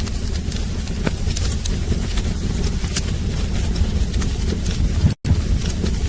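Wood fire burning in a fireplace: a steady low rumble with scattered sharp crackles and pops. The sound cuts out for an instant about five seconds in.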